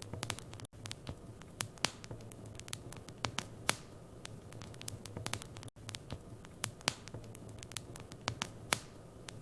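Wood fire in a fireplace crackling, with frequent irregular sharp pops over a steady low hum.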